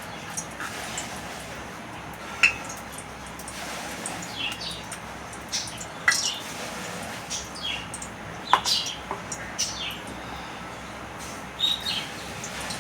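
Small birds chirping in short, sharp notes, some sliding down in pitch, scattered irregularly over a steady background hiss.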